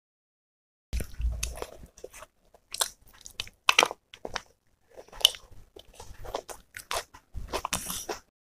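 Crisp crunching and chewing of a mouthful of raw green salad, close to the microphone: a run of sharp crunches starting about a second in, with a couple of short pauses between bites.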